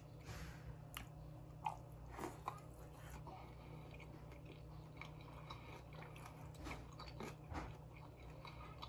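A man chewing a mouthful of gravy-covered hamburger steak close to the microphone: scattered, irregular mouth clicks and smacks, a little busier in the first few seconds.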